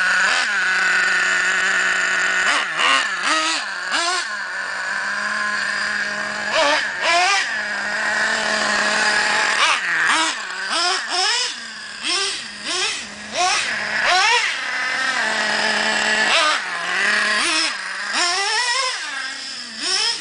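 Small nitro engine of a remote-control truck running at a high-pitched idle while it warms up in the cold, with repeated short throttle blips that rise and fall in pitch.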